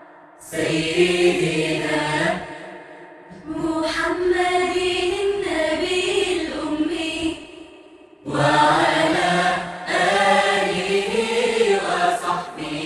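Unaccompanied vocal chanting, as in an a cappella nasheed or recitation, sung in three long melodic phrases with short breaks between them.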